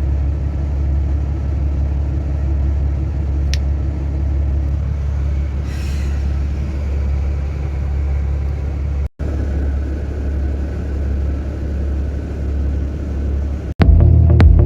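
Truck running along the road, a steady low engine rumble with road noise, broken by a brief dropout about nine seconds in. Near the end it cuts suddenly to a louder throbbing low hum with a few sharp clicks.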